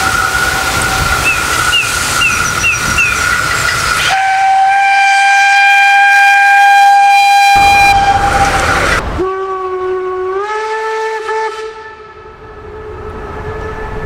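Makrofon train horns on locomotives sounding long, steady single-note blasts in three spliced clips. The first sounds over the noise of a passing train. A louder blast follows about four seconds in and stops sharply about halfway. A lower, quieter blast starts near two-thirds of the way through and steps up slightly in pitch about a second later.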